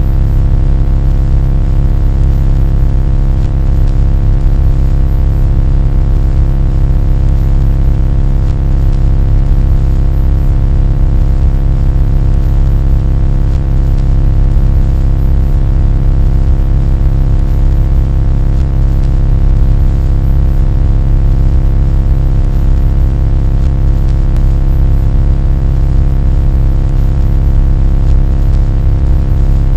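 A loud, steady low rumble with a hum of many fixed tones above it, unchanging throughout: a continuous mechanical drone.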